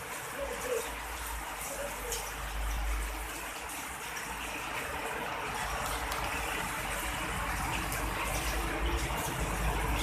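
Rain falling steadily, a continuous hiss with scattered small drip ticks, growing slightly louder toward the end.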